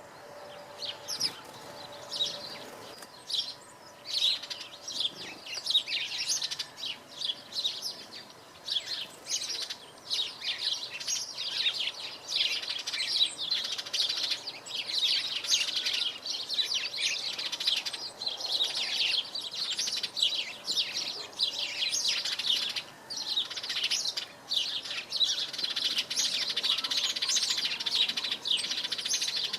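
European robin singing close by: a run of quick, high, varied chirps and trills that carries on with hardly a break.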